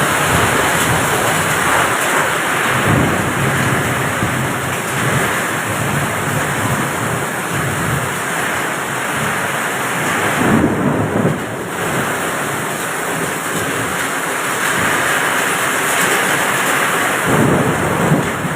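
Heavy rain driven by strong wind, a loud, dense, steady rush. It swells in gusts about three seconds in, again around ten seconds, and near the end.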